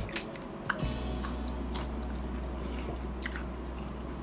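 Crisp biting and chewing of a firm, sour green carabao mango slice, with a few sharp crunches, the clearest about a second in.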